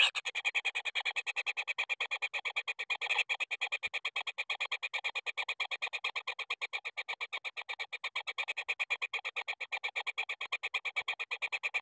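Kingfisher chick calling in a rapid, even series of short, high notes, several a second, without pause.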